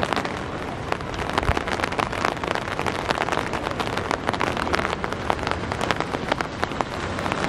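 Steady rain, with many sharp drops pattering on a surface close to the microphone.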